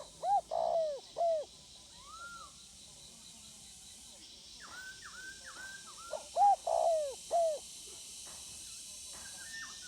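Spotted dove cooing: two phrases about six seconds apart, each of three or four low, falling notes with a rolling middle note. Smaller birds chirp higher and fainter in between.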